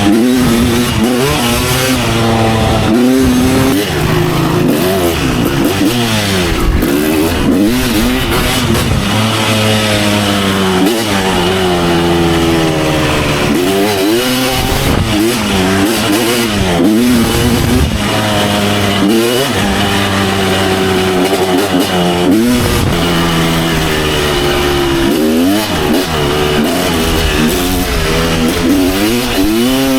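Kawasaki KX250 dirt bike engine ridden hard on a trail, revving up and dropping back again and again as the rider works the throttle and gears.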